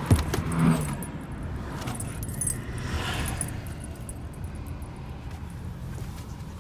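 Steady low rumble of a car moving, heard from inside the cabin, with a knock right at the start and light metallic jingling throughout.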